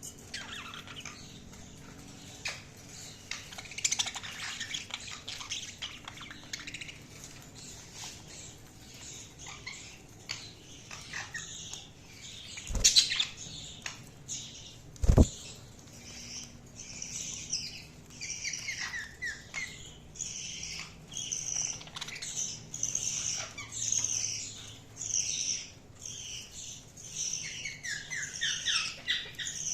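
Budgerigars chirping and chattering in short, high chirps that come thick and fast in the second half. Two loud sharp knocks about halfway through.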